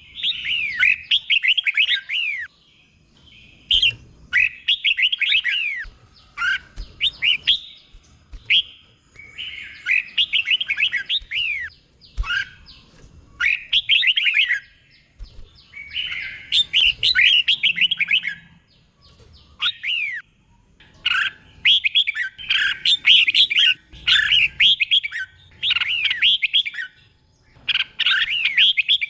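Red-whiskered bulbul singing: short bursts of quick, bright, sweeping whistled phrases, one after another with brief pauses between them.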